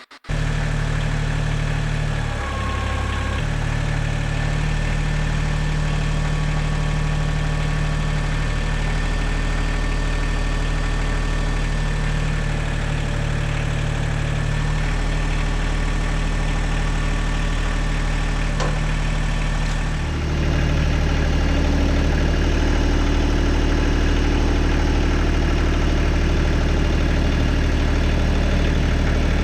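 Engine of heavy equipment running steadily, with a brief change in its note about two to three seconds in and a slightly louder, deeper running from about twenty seconds in.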